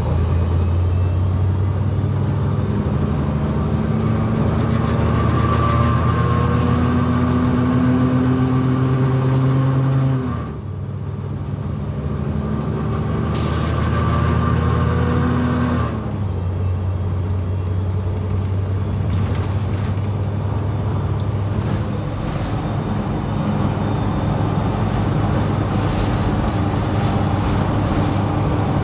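New Flyer XD60 articulated bus's diesel engine pulling away, its pitch rising for about ten seconds, falling off, rising again, then running steady. A brief hiss comes about halfway through.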